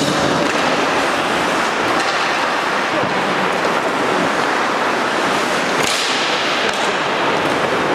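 Ice hockey play in a rink: a steady hiss of skate blades scraping the ice, with a few faint sharp clacks from the play.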